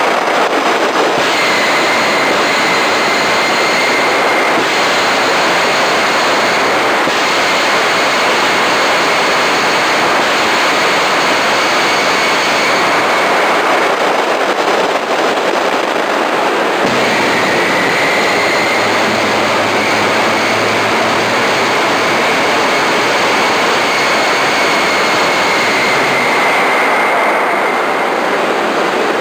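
Homemade gas turbine jet engine running: a loud steady roar with a high turbine whine that fades out and returns a few times.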